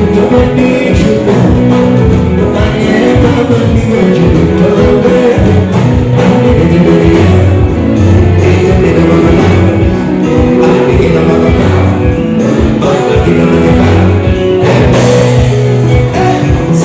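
Live band music with a singer, guitar and a steady beat, played loud and continuous.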